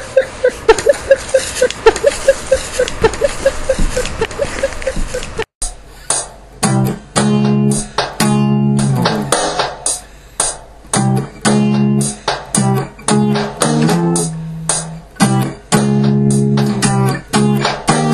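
Guitar music: a fast run of rapidly repeated picked notes, an abrupt cut about five and a half seconds in, then loud stop-start guitar chords.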